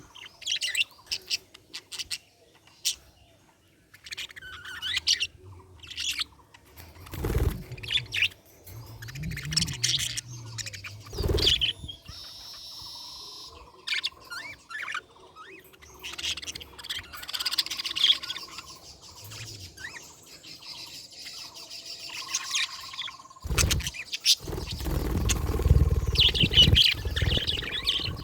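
Budgerigars chirping and warbling in short, high bursts, with two dull thumps partway through and a low rumble under the chirps near the end.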